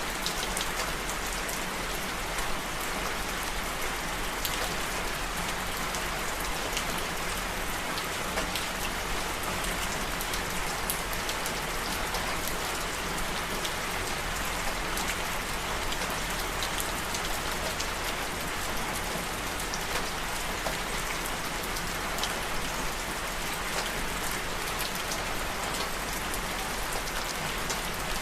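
Steady rain falling on a surface, with a constant hiss and many individual drops ticking.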